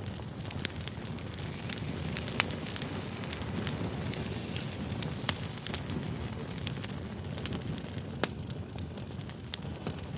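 Wood fire burning: a steady low rumble with irregular sharp crackles and pops of the burning firewood.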